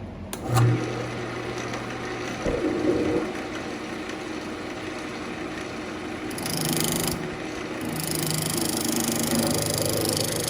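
Wood lathe switching on about half a second in and running with a steady motor hum. A carbide-insert turning tool then cuts hard ambrosia maple, its scraping hiss coming in strongly around six seconds and again from about eight seconds on.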